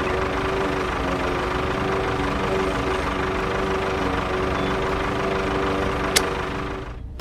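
An engine running steadily at an even speed, with one sharp click about six seconds in; it fades out just before the end.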